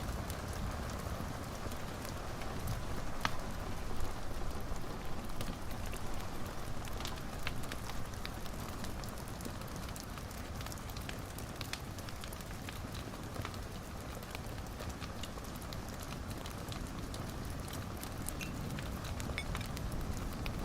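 Wood fire burning in a fireplace: a steady low rush and hiss with scattered crackles and pops, a sharper pop about three seconds in.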